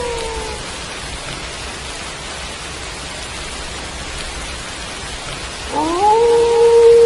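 Wolf howling over steady rain: one howl tails off, dropping slightly in pitch, in the first half second, then a new howl rises near the end and levels into a long held note.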